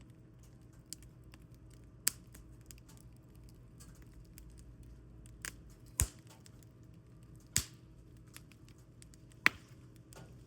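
Firewood burning in a fire pit, crackling with a handful of sharp, separate pops a second or two apart.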